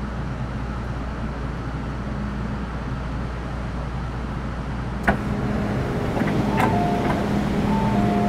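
Inside a Metro Cammell M-Train car: a steady hum of the train's equipment. A sharp knock comes about five seconds in, and short two-pitch electronic tones sound near the end.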